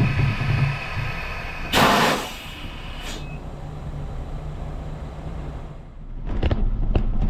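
Semi truck's diesel engine running steadily, with a short loud hiss about two seconds in and a couple of sharp clicks near the end.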